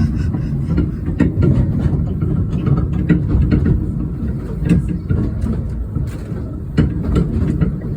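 Rumble of a moving narrow-gauge railway train, with frequent irregular clicks and knocks from the wheels and rolling stock.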